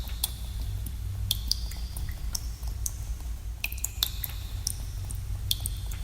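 Water drops falling in a cave, irregularly and several a second, each a sharp plink, some ringing briefly at a high pitch, over a steady low rumble.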